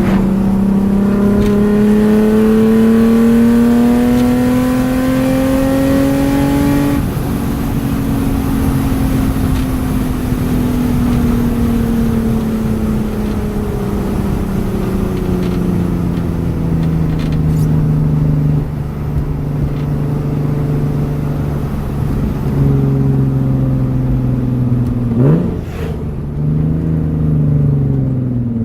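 BMW E36 325i's 2.5-litre straight-six pulling hard, its note climbing steadily for about seven seconds, then easing off and falling slowly as the car coasts. About 25 seconds in there is a quick sharp rev blip, and then the note drops away.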